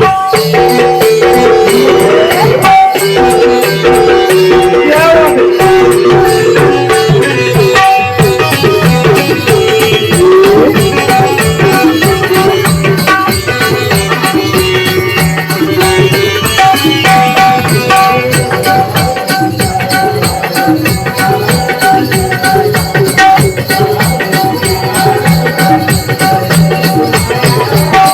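Live Konkani naman folk music with no sung words: a hand-drum rhythm with jingling percussion under a melody instrument, playing continuously.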